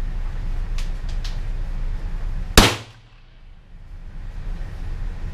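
A shoulder-fired rifle with a red dot sight fired once: a single sharp shot about two and a half seconds in, with a short ring after it.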